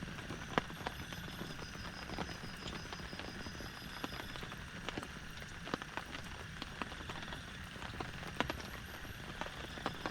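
Heavy rain falling steadily, with irregular sharp taps of large drops striking a surface close by.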